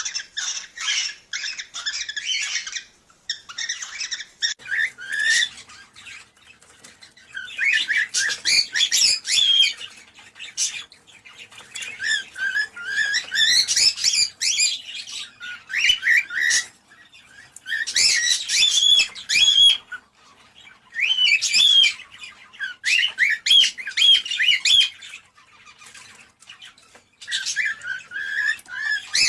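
Cockatiels chirping and warbling in repeated bouts of one to three seconds, with short pauses between.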